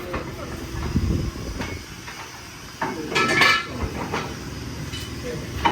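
Irregular metallic clanks and knocks, with a loud ringing clang about three seconds in.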